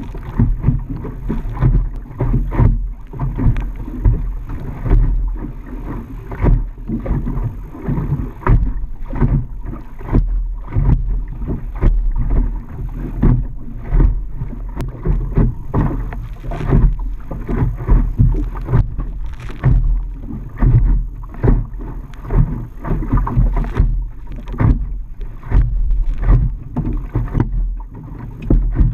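Gusty wind buffeting the microphone on a small boat under way, with uneven low rumbles and water rushing and slapping at the hull.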